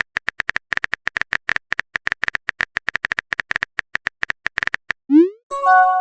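Phone-keyboard typing sound effect: fast, even key clicks, about nine a second, for about five seconds. Then a short rising swoosh as the message is sent, and a chime of a new message starts near the end.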